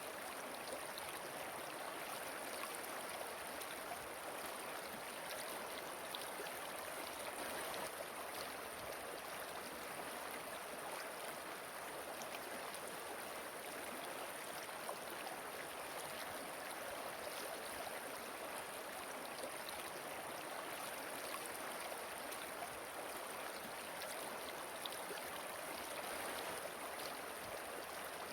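Steady rush of flowing, falling water from a small waterfall and stream, even throughout with no distinct splashes.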